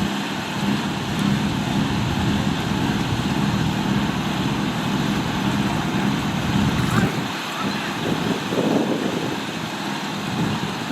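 Off-road vehicle engine running with a steady drone, which drops away about seven seconds in and leaves a rougher, shifting noise.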